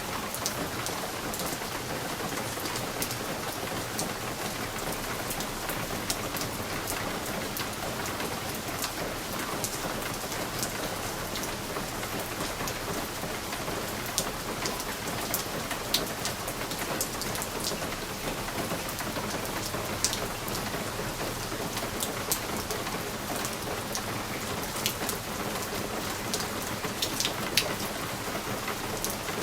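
Steady rain against a window pane: an even hiss with scattered sharper taps of single drops.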